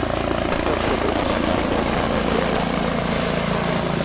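Helicopter running close by: a steady, loud rotor beat with a thin high whine above it.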